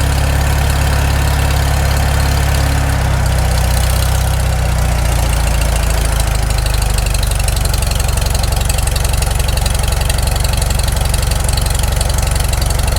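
Farmall Super M's freshly rebuilt four-cylinder engine running steadily just after its first start, warming up on its initial carburettor settings. Its note shifts slightly about three seconds in.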